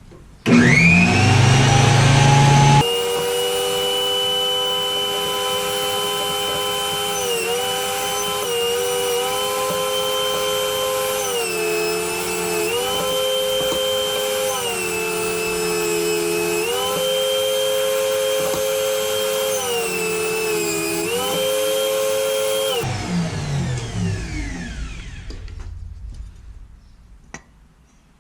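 WEN JT833H 8-inch spiral-cutterhead jointer switched on and spinning up with a rising whine, then running steadily. Its pitch sags and recovers several times, as when a board is fed across the cutterhead and loads the motor. About 23 s in it is switched off and winds down to a stop.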